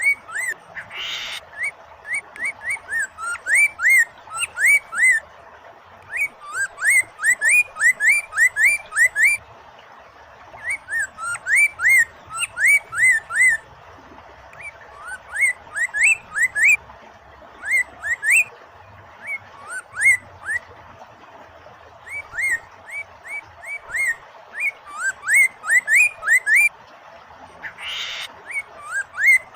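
Poksay mandarin singing in rapid runs of rising whistled notes, each run lasting a few seconds with short pauses between. Under it runs a steady hiss of flowing water, with a brief rushing burst about a second in and again near the end.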